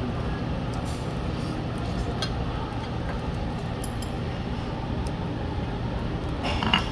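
Steady low background rumble with scattered faint clinks of tableware, and a brief louder clink about six and a half seconds in.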